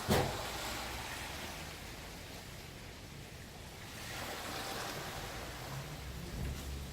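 Sea surf washing on a beach, a steady rush of noise that swells again about four seconds in, with a sharp knock at the very start.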